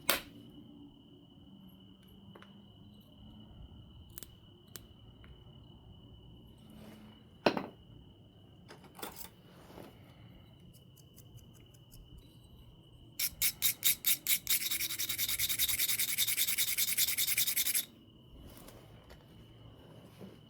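Knapping on an obsidian biface: a sharp tool strike on the stone right at the start and another about seven seconds in, with a few light clicks. About thirteen seconds in comes roughly five seconds of fast scraping, first as separate quick strokes and then running together, typical of abrading the edge to prepare a platform. A faint steady cricket tone runs underneath.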